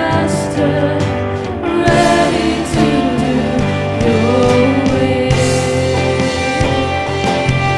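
Christian worship song: singers over a band with drums keeping a steady beat.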